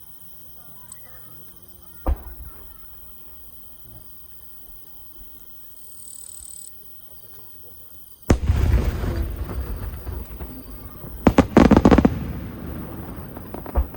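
Fireworks going off: a single sharp bang about two seconds in, then a loud burst with a long crackling tail from about eight seconds, a rapid cluster of bangs and crackles around eleven to twelve seconds, and one more bang near the end.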